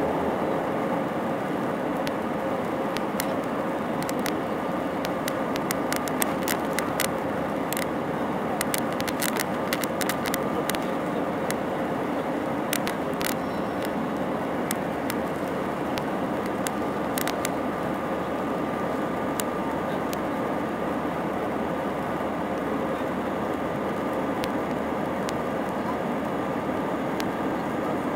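Steady roar of an Airbus A319's IAE V2500 jet engines and rushing air heard inside the passenger cabin, with a steady hum in it. Scattered sharp clicks sound over it, mostly in the first half.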